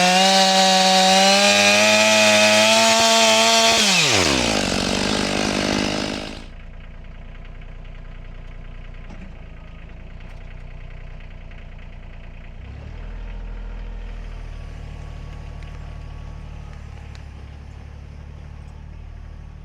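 Two-stroke chainsaw running at full throttle, then let off about four seconds in, its engine note dropping sharply. It settles into a much quieter steady idle, which swells slightly about two-thirds of the way through.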